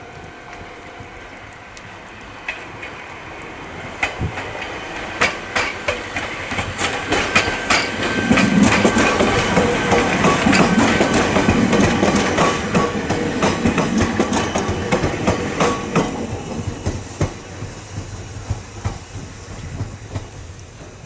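Ohmi Railway electric train (set 822F) passing at close range: it grows louder as it approaches, is loudest for several seconds in the middle with a low rumble and wheels clacking over the rail joints, then fades as it moves away.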